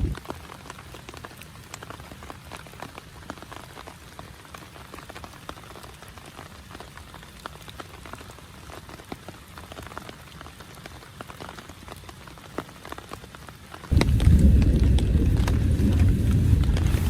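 Rain falling on a tent: a steady patter of many small drop hits. About fourteen seconds in, a much louder low rumble cuts in suddenly and continues.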